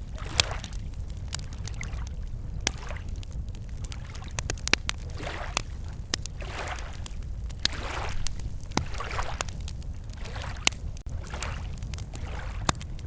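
Wood campfire crackling with frequent sharp pops, over small lake waves lapping at the shore in soft, repeated washes.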